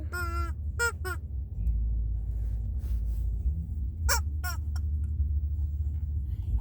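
Squeaky toy being squeezed, giving short honk-like squeaks: a run of three or four in the first second, then two more about four seconds in.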